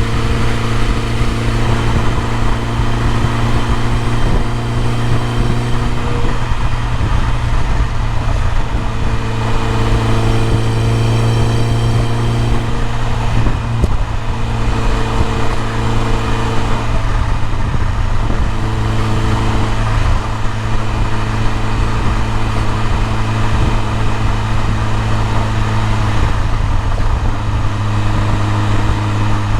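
BMW E30 M3's S14 four-cylinder engine running at steady, constant revs, a deep even hum with small shifts in pitch, over a steady hiss.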